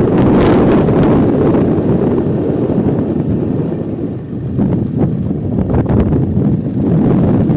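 Steady low rumble of wind buffeting a phone microphone, easing briefly about halfway through, with a few faint knocks.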